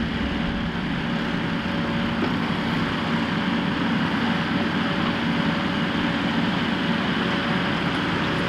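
Gehl skid steer loader running steadily as it works the grade blade over stone, with a faint steady hum over the engine noise.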